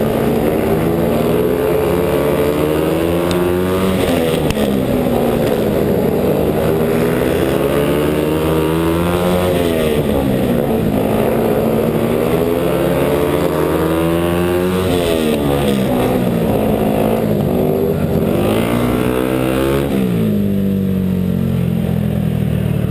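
Speedway motorcycle's single-cylinder engine heard from on the bike, racing laps. Its pitch climbs along each straight and drops as the throttle is eased into the turns, about every five seconds. Near the end it settles to a lower, steadier note.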